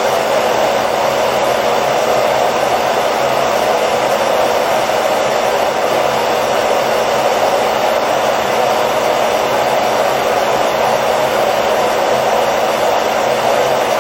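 Hair dryer blowing steadily, a constant whooshing hum that does not change, used as white noise to lull a baby to sleep.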